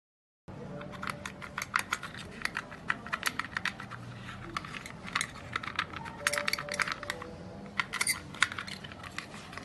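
Rapid, irregular clicking and clinking of small hard parts being handled, in dense runs with short pauses.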